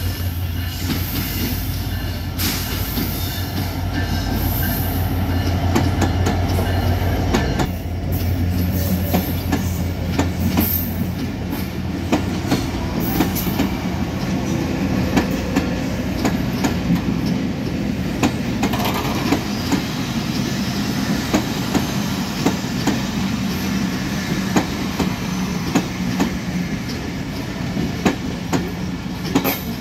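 A WDM-3D diesel-electric locomotive passes with a steady low engine drone, which drops away about eight seconds in. After that the passenger coaches roll by with a steady clickety-clack of wheels over rail joints and a running rumble.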